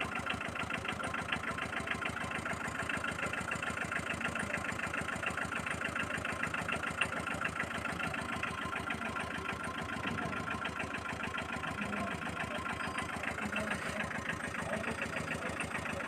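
Small engine idling with a steady, fast, even chugging that holds unchanged throughout.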